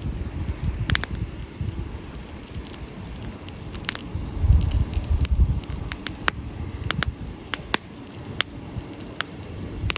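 Wood campfire crackling, with sharp pops scattered irregularly, a dozen or so in ten seconds. Beneath them is a low rumble that swells loudest about halfway through.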